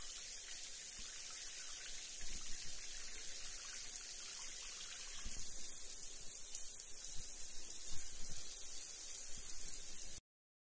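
Steady rain falling, an even hiss with small irregular spikes, which cuts off abruptly near the end.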